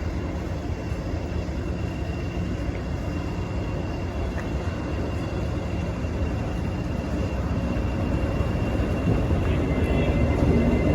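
Diesel locomotive engine running with a low rumble and a steady high whine over it, growing louder toward the end.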